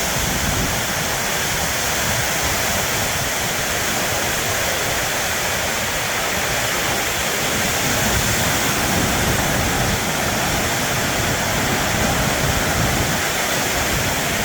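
Heavy storm rain hitting a metal roof: a deafening, steady roar that holds at one level throughout.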